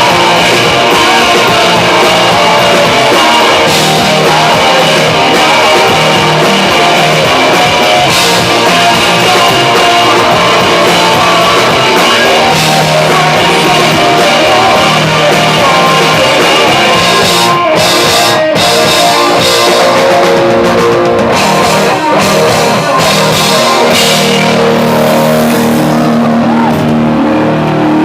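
Live rock band playing loud, with guitars and a drum kit. Near the end the drums stop and the guitar is left ringing on low held notes.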